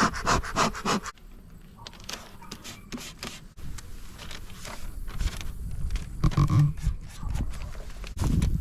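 Quick puffs of air from a bee smoker's bellows in the first second, then quieter scraping, rubbing and small knocks of wooden hive equipment being handled, with a louder bump about six seconds in.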